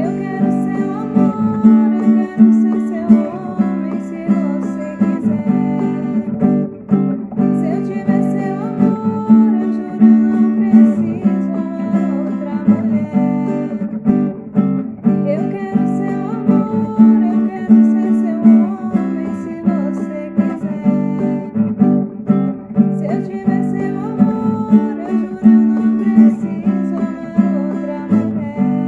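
Music: an acoustic guitar strummed in a steady rhythm, playing a sertanejo song.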